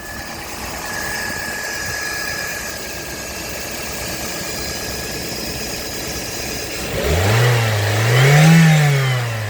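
Toyota 1NZ-FE 1.5-litre inline-four running steadily at idle with a thin steady whine over it, then revved up about seven seconds in, climbing in two steps to a peak and falling back toward idle near the end.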